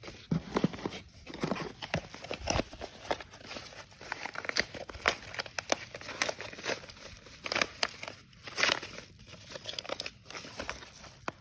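Parcel packaging crinkling and rustling as it is handled, with dense, irregular crackles all the way through.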